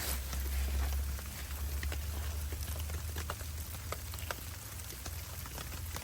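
Precipitation pattering: scattered light, irregular ticks over a steady hiss and a low rumble.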